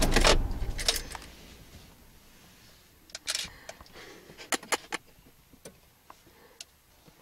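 Car engine switched off: its running noise dies away within about a second. Then come scattered small clicks and a short rattle.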